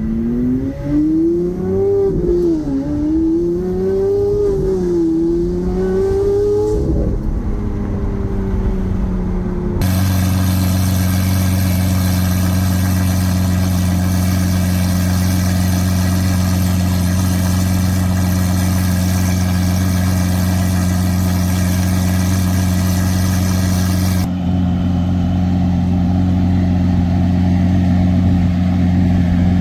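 Lamborghini Aventador SV's V12, fitted with a Gintani F1 exhaust, revving: the pitch rises and falls about four times, then dies away. About ten seconds in, the sound cuts abruptly to a steady, unchanging engine drone.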